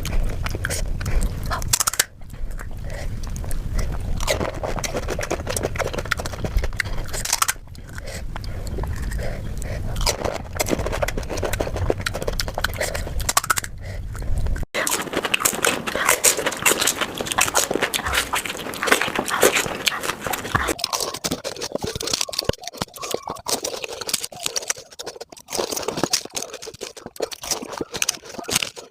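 Close-miked crunching and chewing of golgappa (pani puri), the crisp fried hollow shells cracking between the teeth in a dense run of crackles. A low rumble under the first half stops abruptly about halfway through.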